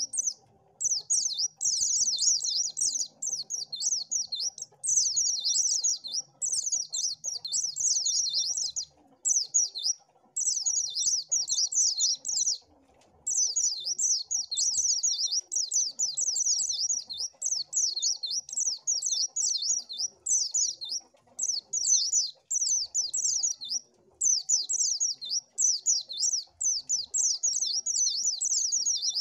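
White-eye (pleci) singing: a rapid, high, warbling twitter in phrases of a second or two, broken by short pauses and repeating steadily.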